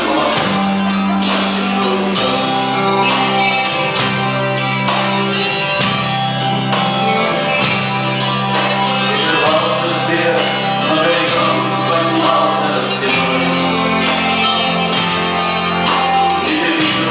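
Live rock band playing: guitar, bass guitar and drums, with singing.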